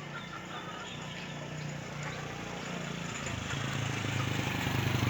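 A motor engine running and growing steadily louder, its hum dropping in pitch about three seconds in, with faint bird chirps over it at first.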